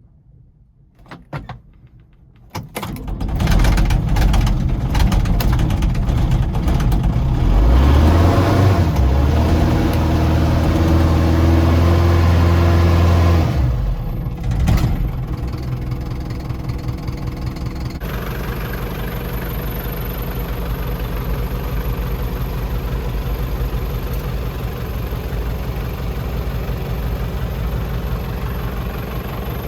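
Nissan ED30 diesel engine in a Nissan Cabover C240 dump truck starting after a few clicks. It is revved up and held high for about ten seconds, then drops back, blips once and settles into a steady idle.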